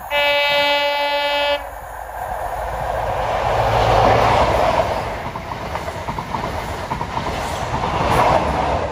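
Class 43 HST (ScotRail Inter7City) sounding one horn blast about a second and a half long, then passing close by. Its engine and wheel noise swell to a peak as the power car goes by, and the wheels click rhythmically over the rail joints as the coaches follow, rising again near the end.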